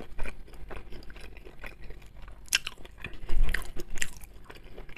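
A person chewing a mouthful of food close to the microphone: wet mouth sounds with a few sharp crunchy clicks, the clearest about two and a half, three and a half and four seconds in.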